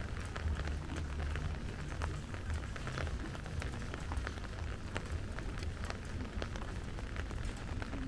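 Steady rain falling, with many sharp ticks of individual drops landing close by, over a low steady rumble.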